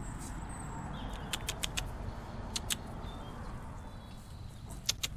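Birds calling faintly over a low outdoor rumble, with short runs of sharp clicks: four quick ones about a second and a half in, two more near the middle and two near the end.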